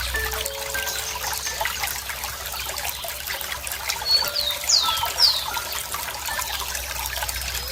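Water trickling and dribbling steadily, with little plinking droplet tones. About four to five seconds in, a bird gives three quick chirps that fall in pitch.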